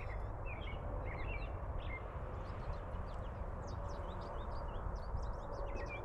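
Small birds chirping and twittering, many short calls scattered throughout, over a steady low background noise.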